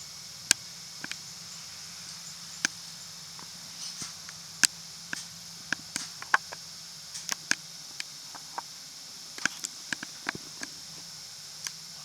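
Inside a city route bus: a steady low hum from the drivetrain under a high hiss, with frequent irregular sharp clicks and rattles from the cabin fittings.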